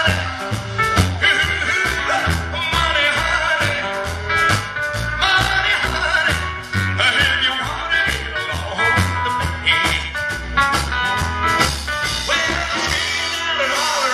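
Live rock and roll band playing with a steady beat: electric guitar, bass and drums, recorded on a small camera's microphone, with no lyrics sung.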